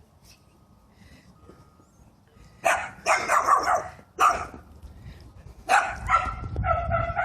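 A dog barking in a run of short, sharp barks starting a few seconds in, ending with a longer, steadier-pitched bark or yelp.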